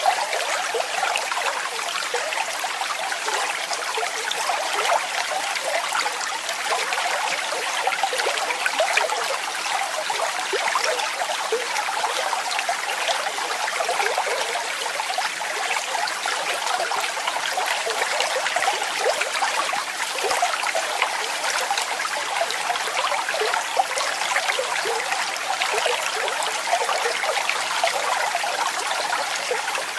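Steady splashing and rushing of falling water, a small waterfall or cascading stream, with no lulls or breaks.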